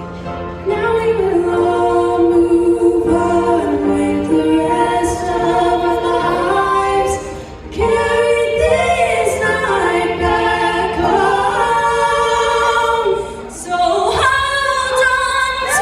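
Wordless singing in long held notes that waver in pitch, sounding choir-like, as the song draws to its close. Near the end, the audience breaks into cheering and shouts.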